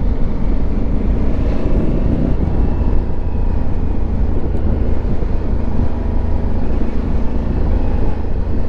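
Riding noise from a Honda Africa Twin Adventure Sports motorcycle: a steady, loud low rumble of wind and engine, unbroken throughout.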